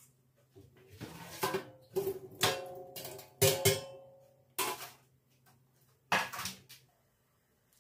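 Dishes clinking and clattering as they are handled and set down, some knocks ringing briefly, about seven in all and loudest in the middle.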